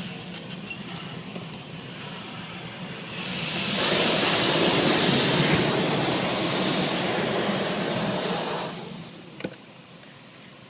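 High-pressure water jets of an automatic car wash spraying against the car, heard from inside the cabin: a hiss that swells about three seconds in, stays loud for about five seconds and dies away, over a steady low hum. A single sharp click near the end.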